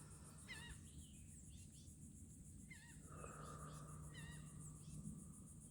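Faint woodland ambience: a bird gives a short warbling call every second or two over a steady, pulsing high insect trill.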